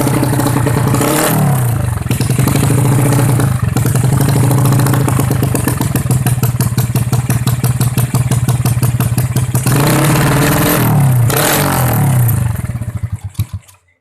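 Motorcycle engine running through an aftermarket JRM exhaust. It idles with a fast, even exhaust pulse, is revved briefly about a second in and twice more later, then is shut off and sputters to a stop near the end.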